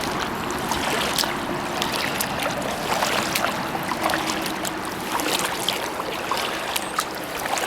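Kayak paddling: water trickling and dripping from the paddle and moving along the hull, with many small drips and splashes throughout.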